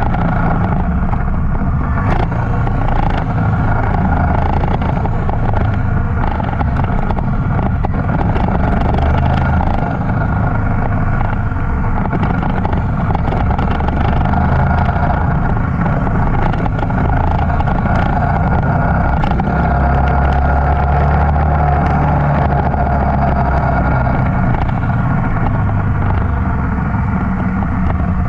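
A motorcycle engine running steadily, holding an even pace with no sharp revving.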